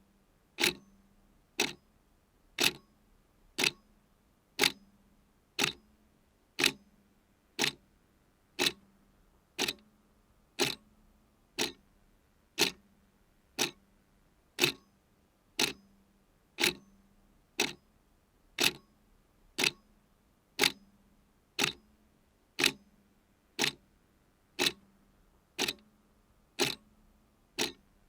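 Clock ticking steadily, about one tick a second, in an alternating tick-tock with every other stroke carrying a slightly lower ring.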